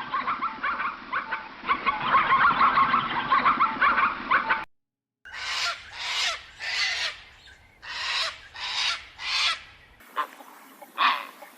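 Domestic geese honking. First a dense, continuous chatter of many overlapping calls, then after a brief break a run of separate loud honks, about two a second.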